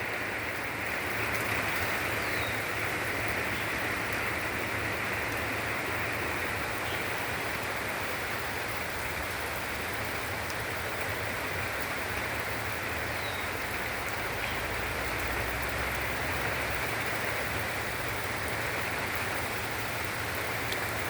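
Rain falling steadily, an even hiss with no let-up, and a few faint high chirps now and then.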